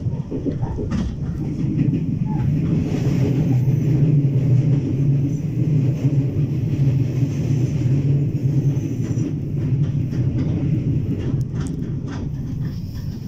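A train running with a steady low rumble, with a few sharp clicks about three-quarters of the way through.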